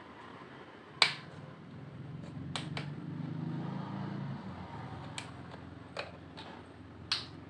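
Potato chips crunching as they are bitten and chewed: about six sharp, irregular cracks, the loudest about a second in and near the end, over a low muffled rumble in the first half.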